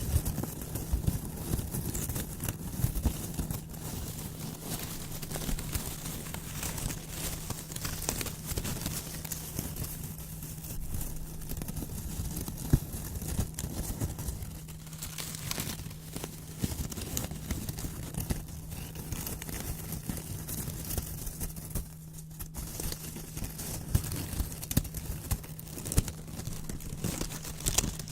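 Scissors cutting brown paper, with crisp, irregular crackling and crinkling of the sheet as it is cut and handled. A faint steady low hum runs underneath.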